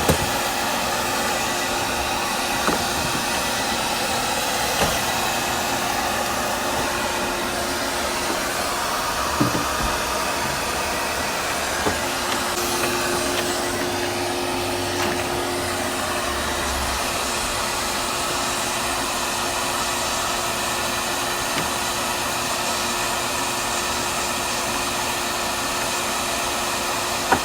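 Vacuum cleaner running steadily while dust is sucked off a car's bare-metal floor, with a few light knocks of the nozzle against the metal.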